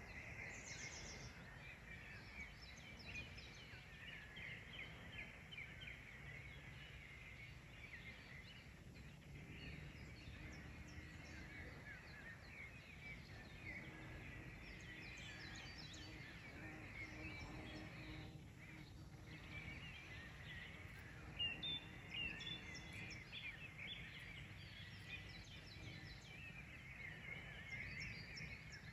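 Faint outdoor chorus of many small songbirds, with overlapping short chirps and trills throughout, over a low steady background rumble.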